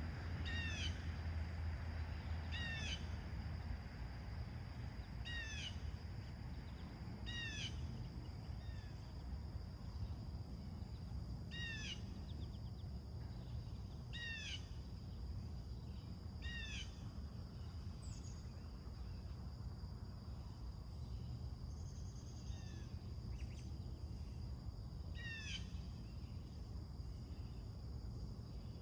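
A crow cawing: short, single caws that fall in pitch, repeated every two seconds or so, with a pause of several seconds in the middle. Under it runs a steady low rumble and a faint steady high tone.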